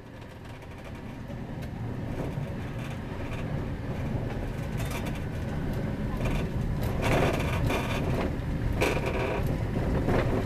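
Rack railway train running on the Snowdon Mountain Railway, a steady rumble that grows louder, with a run of clanks and scrapes in the second half as it rolls over the points into a passing loop.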